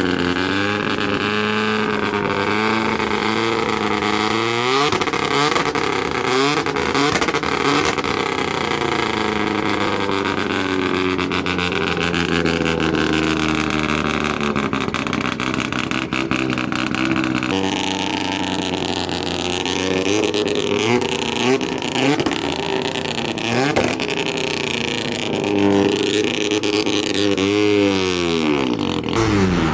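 Car engines idling and being revved, the engine note rising and falling several times, with an abrupt change in the engine sound about halfway through.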